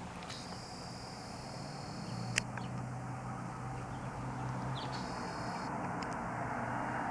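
Outdoor background with a steady low hum, like distant traffic, and a few faint bird chirps. There is a single sharp click about two and a half seconds in.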